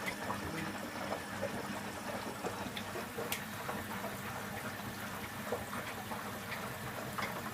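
Water running and trickling inside a Candy Aquamatic 1000T compact washing machine, a steady hiss with scattered faint clicks.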